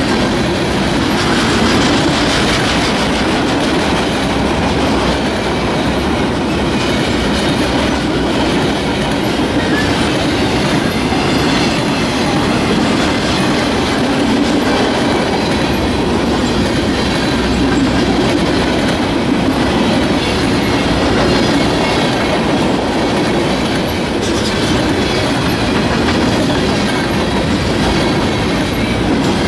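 Loaded freight flatcars rolling steadily past: a continuous rumble of steel wheels on rail, with the clickety-clack of wheels passing over rail joints.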